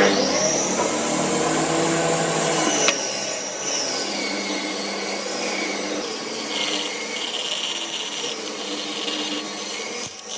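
A power tool working wood, starting abruptly. Its motor whine rises and falls as it bites into the work, with a single sharp tick about three seconds in.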